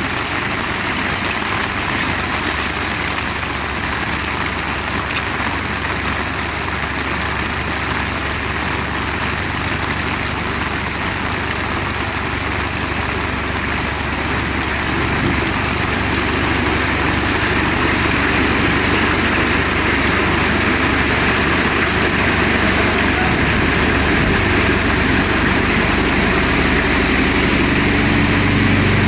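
Heavy rain falling steadily, a dense hiss that grows a little louder about halfway through. Near the end a low, steady hum joins in under the rain.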